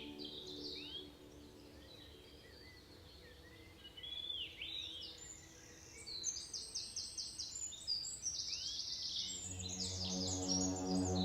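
Rainforest birds calling: short rising whistled notes repeated every few seconds, and a fast run of sharp chirps about six seconds in. Soft ambient music fades out at the start and comes back near the end.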